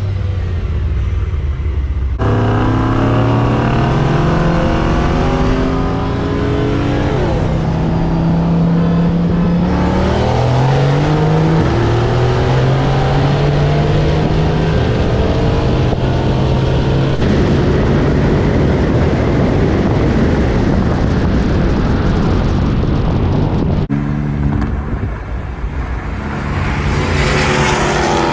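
Turbocharged V8 car accelerating hard at full throttle. About two seconds in the engine note jumps up, then climbs in pitch through each gear and drops back at the shifts, about every seven seconds.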